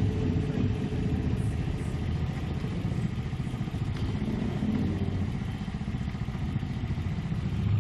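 Motorcycle engines idling with a steady low rumble.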